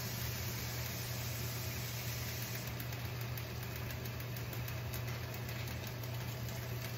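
Chicken and vegetables sizzling faintly in a wok over a gas burner, over a steady low hum. Light crackling joins in about three seconds in.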